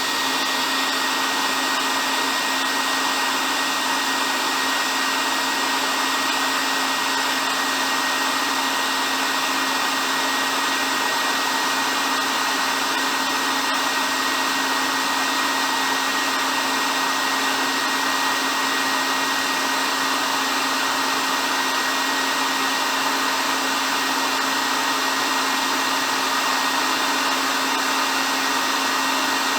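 Handheld hair dryer running steadily: an even rush of air over the motor's constant whine, with no change in speed.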